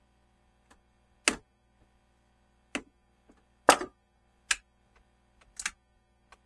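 Irregular sharp clicks and knocks, about six of them spaced unevenly with the loudest a little before 4 s, as tools and engine parts are handled during a spark-plug change.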